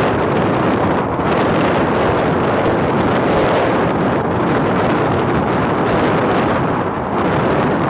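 Steady, loud wind rushing over the microphone, as from riding along at speed.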